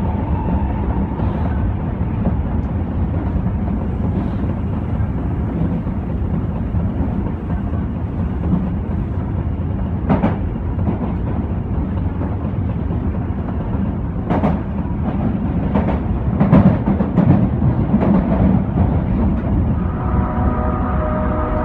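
Osaka Metro 22 series subway car running through a tunnel, heard from inside the car: a steady low rumble with sharp knocks, once about ten seconds in and several more between about fourteen and nineteen seconds. Near the end a whine of several steady pitches comes in.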